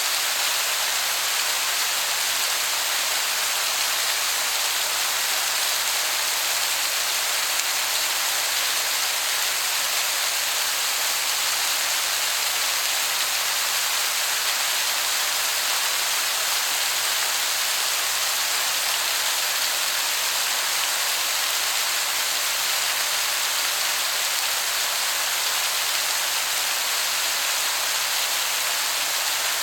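Waterfall falling in a steady, even hiss that sounds like heavy rain, with no changes.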